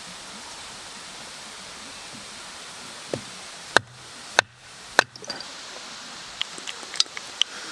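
A steady hiss, then four sharp knocks about half a second apart, followed by lighter scattered clicks.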